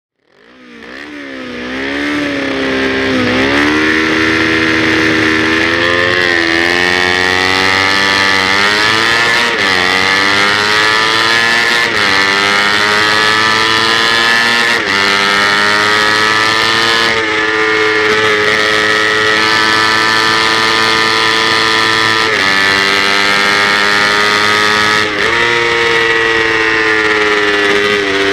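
Kawasaki Ninja 250 parallel-twin race bike engine heard on board under hard acceleration. The pitch climbs steadily through each gear and drops sharply at each gear change, about eight times. The revs waver unevenly in the first few seconds.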